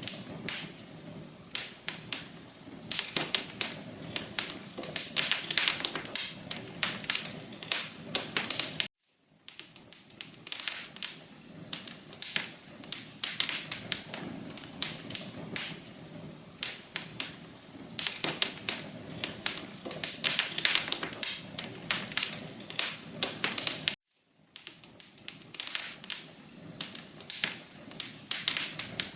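Wood fire crackling: dense, irregular pops and snaps over a soft steady hiss. The sound drops out briefly twice, about nine and twenty-four seconds in.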